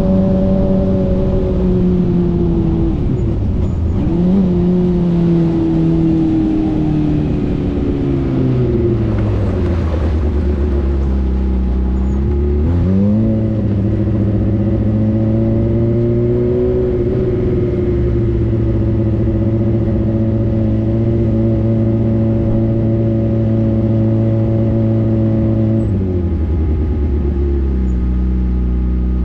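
Race car engine heard close up from the car's own bodywork as it slows off the track. The revs fall, rise sharply once about halfway through, then hold at a steady low speed while it drives on, dropping to a lower idle near the end as the car comes to a stop.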